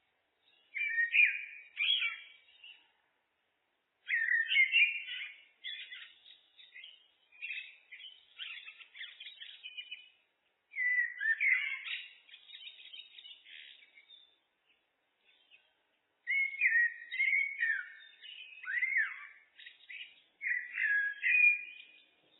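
Common blackbird singing: a series of phrases of warbling notes that glide up and down in pitch, each phrase a few seconds long, with short silent pauses between them.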